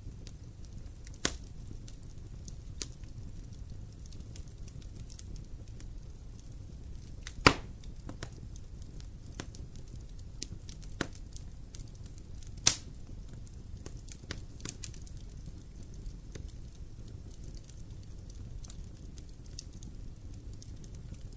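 Fire burning in a fireplace: a steady low rumble with scattered sharp crackles and pops, three of them clearly louder than the rest.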